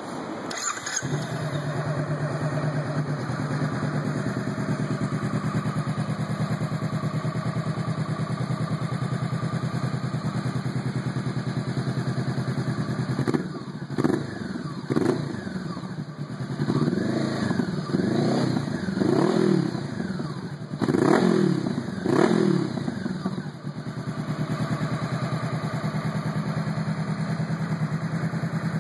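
Honda CB500-series 471 cc parallel-twin with a Leo Vince GP aftermarket exhaust, idling steadily, then blipped through a string of quick throttle revs in the middle before settling back to idle.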